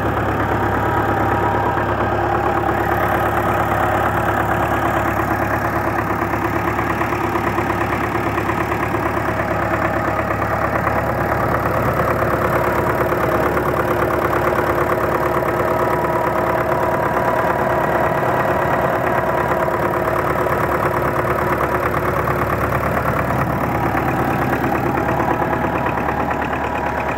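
D-243 four-cylinder diesel engine idling steadily, still cold, running on a freshly repaired fuel injection pump with the injection timing set slightly later, which makes it run softer.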